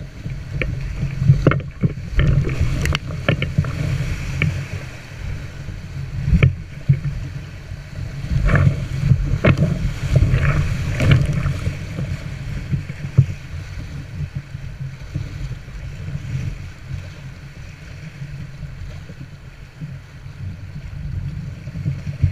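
Kayak on a river: rushing water with irregular splashes and knocks from paddle strokes, busiest in the first half, over a steady low rumble.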